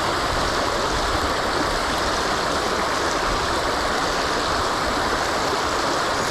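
Small creek running high, its water rushing in a steady, unbroken flow.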